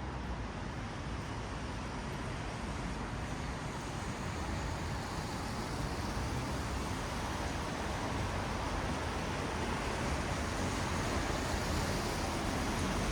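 Traffic on a wet city road: tyres hissing on rain-soaked asphalt over a low engine rumble, slowly growing louder as vehicles come closer.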